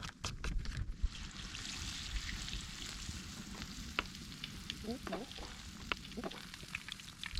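Battered pike frying in a pan of hot oil over a campfire, sizzling steadily from about a second in, with scattered pops and crackles. A few quick clicks come just at the start.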